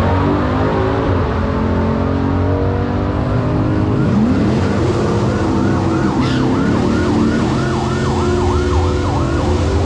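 Stunt car's engine running as the car drives balanced on two wheels, rising in pitch briefly about four seconds in. From about three seconds in, a siren warbles rapidly over it.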